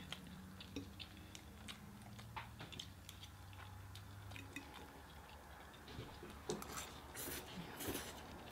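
Quiet chewing of glazed orange chicken, with many small wet mouth clicks and a few louder, rougher chewing sounds near the end.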